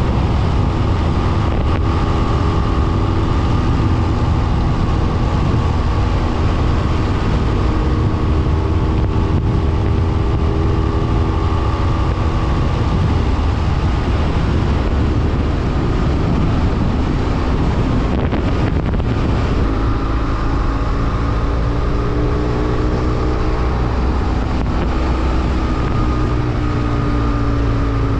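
BMW F800R's parallel-twin engine running while the motorcycle is ridden, under heavy wind rush over the microphone; the engine note shifts up and down with speed, changing most in the last third.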